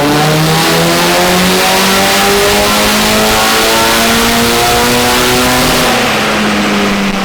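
Nissan S15's turbocharged SR20DET four-cylinder pulling hard on a chassis dyno, its revs climbing steadily through a gear for about six seconds, then the throttle closing and the engine note levelling off near the end.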